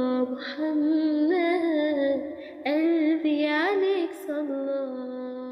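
A woman singing the closing line of an Arabic nasheed, with ornamented runs of notes, ending on a long held note that fades away.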